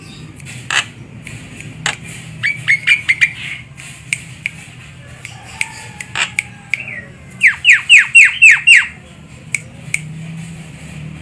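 Javan myna calling: a quick run of short, downward-sliding notes a few seconds in, then a louder run of about seven such notes past the middle, with scattered sharp clicks between. A steady low hum runs underneath.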